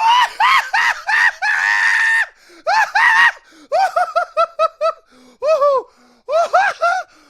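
A man laughing uncontrollably in high-pitched squeals, with one longer drawn-out shriek about two seconds in and a fast run of short laughs in the middle.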